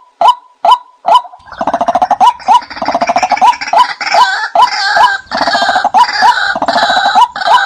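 Bird calls: a short rising note repeated about twice a second, overlaid from about a second and a half in by a louder, denser run of harsh, overlapping calls.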